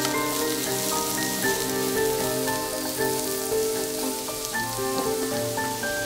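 Garlic, onion, carrot and red bell pepper sizzling in oil in a frying pan: a steady, even hiss, over background music of held melodic notes.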